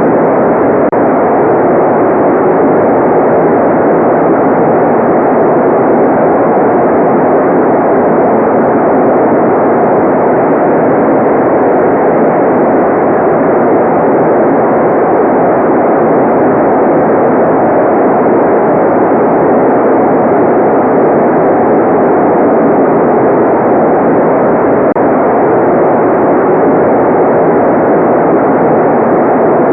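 Steady, loud white noise: an even, unchanging rush with no events. It sounds muffled rather than hissy, with nothing in the highest range.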